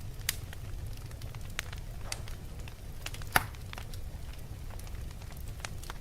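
Fire crackling: a steady low rumble with scattered sharp pops, one much louder pop about halfway through.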